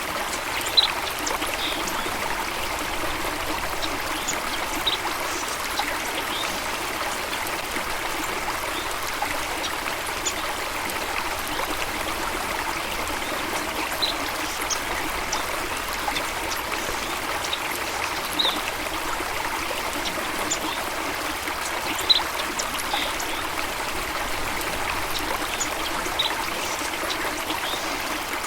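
Flowing water running steadily, a continuous rushing and trickling, with brief high chirps scattered throughout and two short louder splashes or chirps, about a second in and about two-thirds of the way through.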